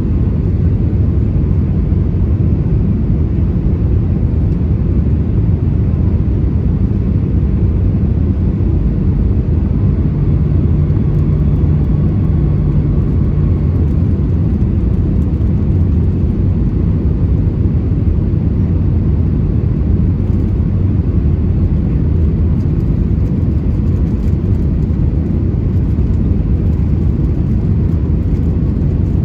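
Steady low rumble of an Airbus A319's CFM56 engines and airflow, heard from inside the passenger cabin in flight. A low steady hum joins in for a few seconds about a third of the way through.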